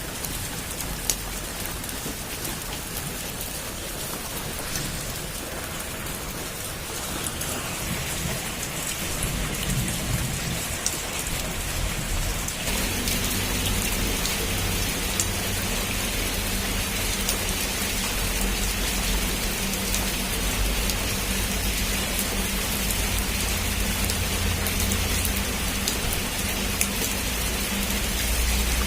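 Heavy rain falling steadily, with scattered sharp drop ticks on a surface. About halfway through the hiss of the rain grows louder and a low steady rumble comes in underneath.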